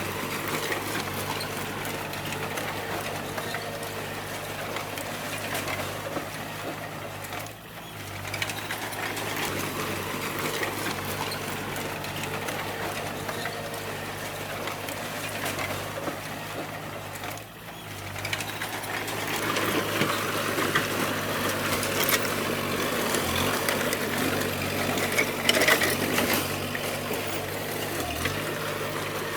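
D20 bulldozer's diesel engine running steadily under work, with metallic track and blade clatter. The sound dips briefly twice, then grows louder and busier in the last third, with sharp clanks.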